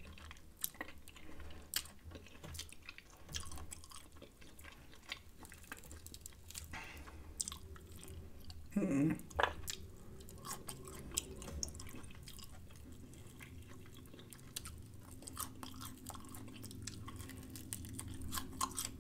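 Close-miked chewing of fried chicken: wet mouth smacks and small clicks, with one short hummed sound from the eater about nine seconds in.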